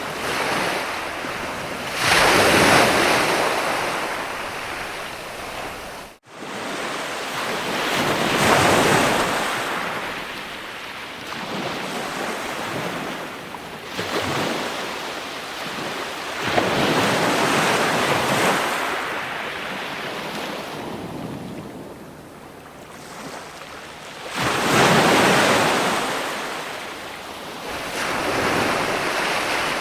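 Ocean surf: waves breaking and washing in slow swells, one every six to eight seconds or so. The sound cuts out for a split second about six seconds in.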